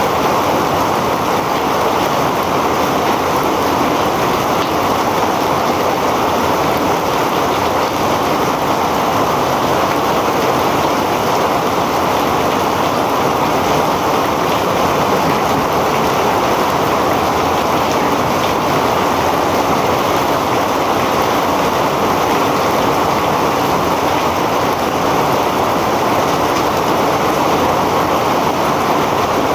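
Heavy rain pouring down steadily, an unbroken wash of dense rain noise with no let-up or change.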